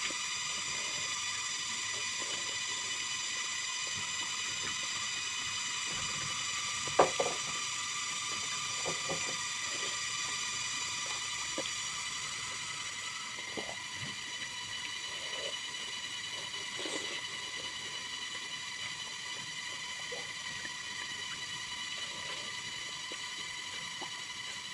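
Eating sounds: a few light clicks and scrapes of a utensil against a plate, the loudest about 7 seconds in, over a steady high-pitched whine of several even tones.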